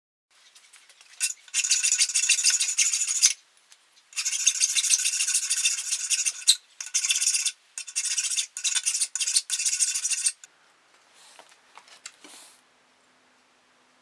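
A saw cutting through a square steel bar to part off the monkey tool: high-pitched metal rasping in long runs broken by short pauses. It stops about ten seconds in, followed by a few faint handling clicks.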